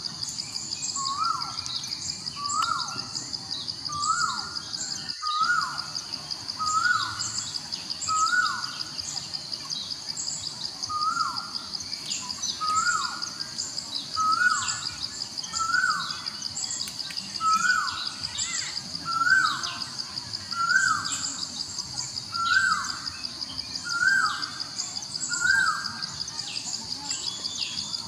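A bird repeating the same short call about every second and a half, over a steady high-pitched insect drone and scattered faint higher chirps.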